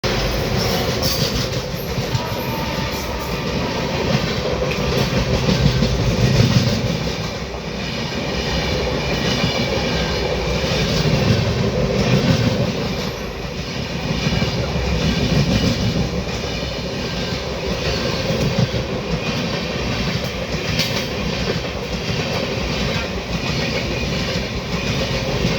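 Sapt Kranti Superfast Express train running through at speed without stopping, a steady rumble of carriages with wheels clattering over the rail joints.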